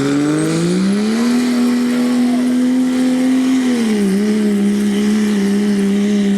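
Dodge diesel pickup's turbocharged Cummins straight-six revving hard under load while pulling the weight sled. The engine note climbs over the first second, holds high, then drops a little about four seconds in and runs steady.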